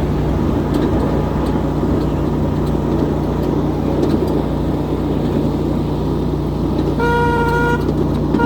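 Riding on a 7.5-inch-gauge miniature train: the steady drone and rumble of the locomotive and wheels on the track. The train's horn sounds one short blast near the end.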